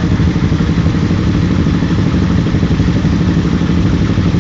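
Small motorcycle engines idling steadily, a continuous low, pulsing rumble.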